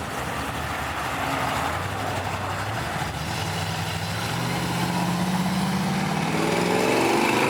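Diesel truck engine idling low, then accelerating, its pitch rising steadily over the last few seconds as it pulls away.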